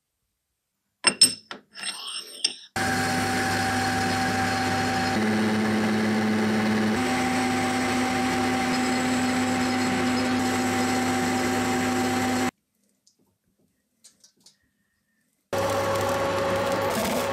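A few sharp metallic clicks and knocks, then a small power tool running steadily for about ten seconds, briefly a little lower in pitch, before stopping abruptly. After a pause with a few light ticks, it runs again near the end.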